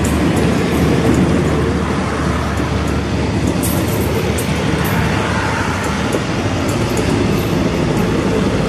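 Passenger train coaches rolling past at close range: a steady rumble of steel wheels on the rails, with scattered light clicks.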